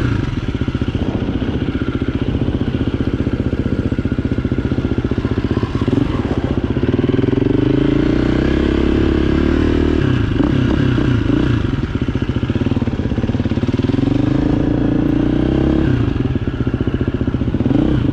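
Dirt bike engine running close up while riding, its pitch rising and falling several times as the throttle is rolled on and off.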